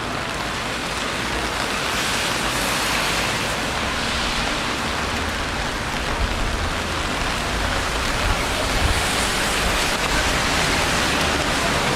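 Steady rain falling on a city street, a constant hiss, with a low rumble swelling through the middle.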